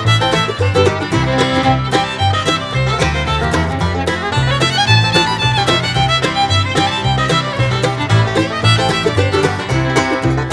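Instrumental background music with a steady bass beat, a fiddle-led tune in a bluegrass style.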